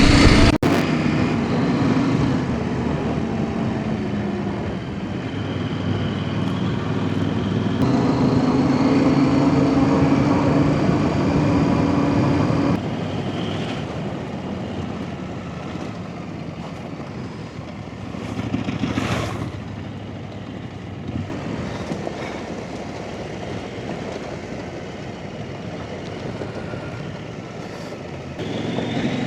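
Off-road trail motorcycle engine under way, its revs rising and falling with the throttle. It is loudest and held at higher revs about eight to twelve seconds in, then drops back to a quieter, steadier running.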